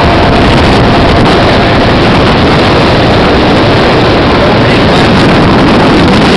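Speedboat running at speed, heard from on board: a loud, steady engine and rushing noise that does not let up.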